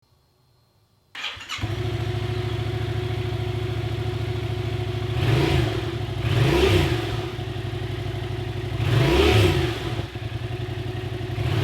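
Yamaha FZ-07's 689 cc parallel-twin engine starting about a second in, settling into a steady idle, then revved up and back down three times.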